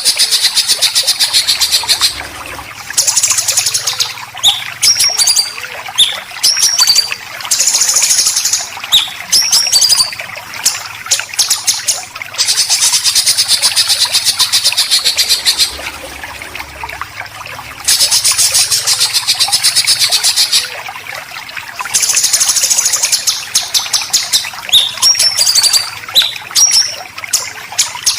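Songbird 'besetan' calls, as recorded for training white-rumped shama and green leafbird. Long bursts of harsh, very fast rattling chatter alternate with short falling whistled notes, and the rattle bursts return about every five seconds.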